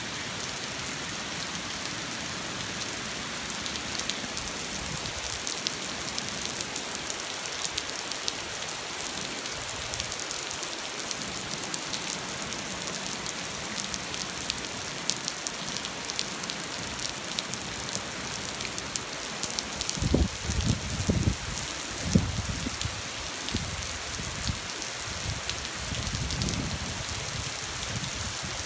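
Steady rain pattering, with individual drops ticking through the hiss. About two-thirds of the way in, a few short low thumps or rumbles stand out for a couple of seconds.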